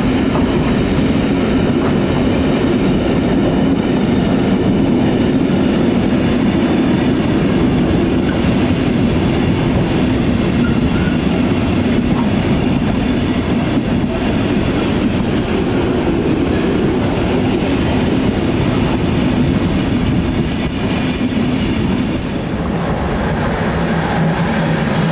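Long freight train of tank-container and container flat wagons rolling steadily past, with continuous wheel-on-rail noise. Near the end the sound changes to a steadier low hum as a DB class 185 electric locomotive comes in.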